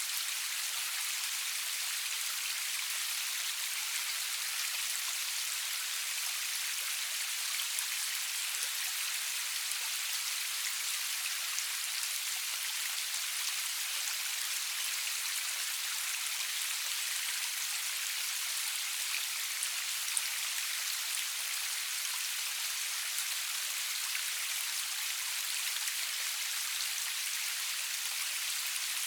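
Steady rain falling, a constant even hiss with fine patter of individual drops.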